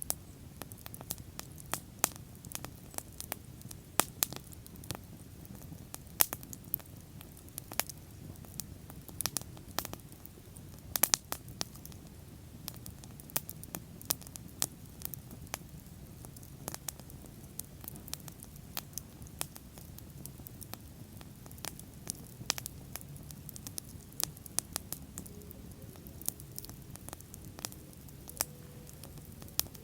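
Wood bonfire burning: irregular sharp crackles and pops, several a second, with a few louder snaps, over a low steady rumble of the flames.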